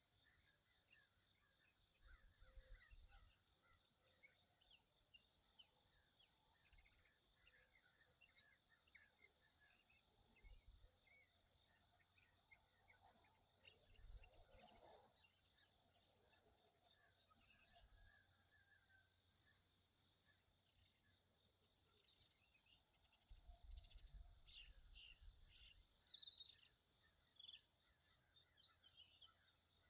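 Faint outdoor ambience: many short bird chirps and calls, busier near the end, over a steady high insect hum, with occasional low wind bumps on the microphone.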